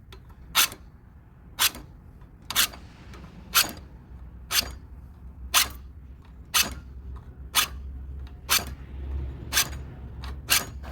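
A hand file rasping on the steel tabs of a washing machine's drive bar, about one stroke a second, ten strokes in a row. The tabs are being filed square and straight so they grip the drive block again.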